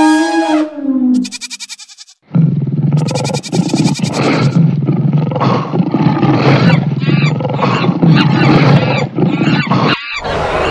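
Cartoon lion roaring and growling, rough and loud, from about two seconds in until it cuts off abruptly near the end. It is preceded by the tail of a pitched animal call that falls in pitch and fades.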